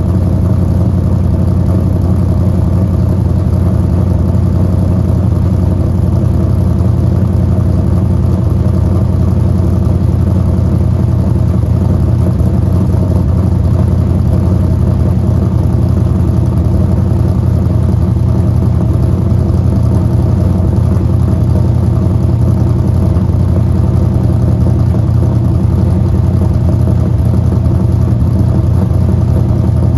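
Rebuilt LS V8 engine idling steadily.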